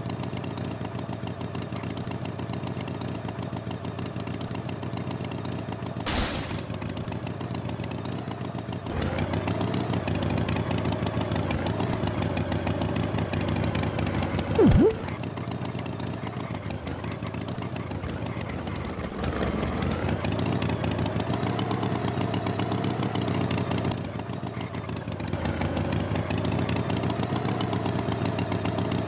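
Tractor engine running steadily, getting louder about a third of the way in, dropping back and picking up again near the end. A brief loud sound about halfway through dips sharply in pitch and comes back.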